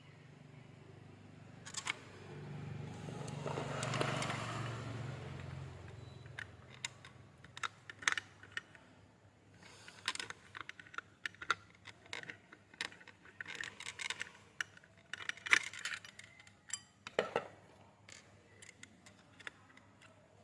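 Small metal parts and tools clinking, clicking and scraping as a battery charger is worked on by hand. A louder rushing noise with a low hum swells and fades in the first few seconds.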